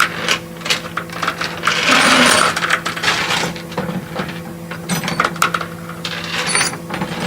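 Metal tow chains and hooks clinking and clanking irregularly over a steady hum, with a louder rush of noise about two seconds in.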